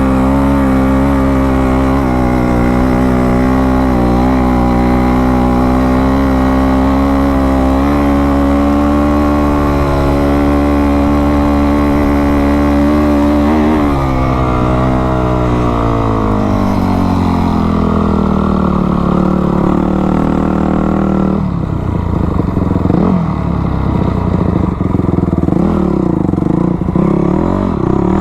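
Dirt bike engine running at a steady high note, then its pitch falls away from about halfway through as it slows. Near the end it revs up and down unevenly, typical of riding in soft beach sand.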